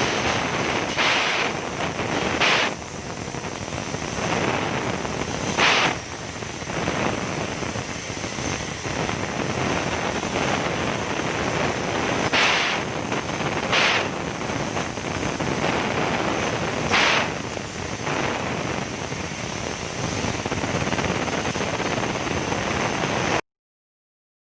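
CNC cutting machine at work: a steady hiss with a thin high whine, broken by several sharp, short bursts, then cutting off suddenly near the end.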